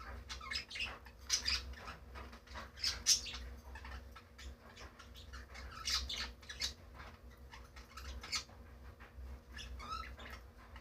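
Pet parakeet chirping and squawking in short, scattered calls, with a brief warbling run near the end.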